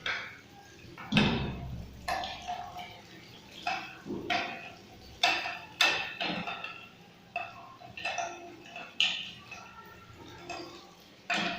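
Washing machine lint filter being handled and rinsed: about a dozen irregular sharp knocks and clatters against hard surfaces, some with a short ringing tail.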